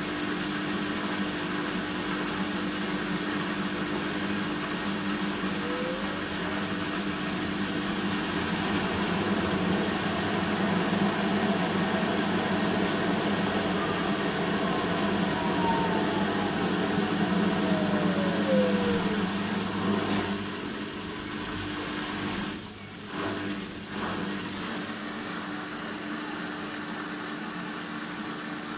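Bosch WAN28220FF front-loading washing machine running a Synthetics 40 °C cycle: a steady motor hum that swells, with a motor whine falling in pitch over several seconds. The running noise then drops about two-thirds of the way through, with a couple of brief lulls.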